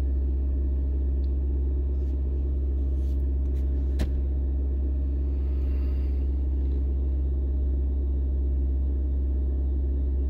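Car engine held at a steady, ECU-limited raised speed with the accelerator floored and the brake held, a constant low drone, while the scan tool runs its catalytic converter efficiency test. A single sharp click about four seconds in.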